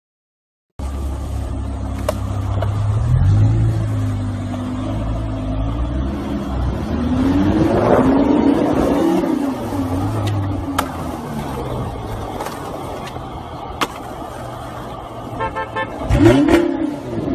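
Car sounds: an engine running with its pitch rising and falling, and a car horn sounding.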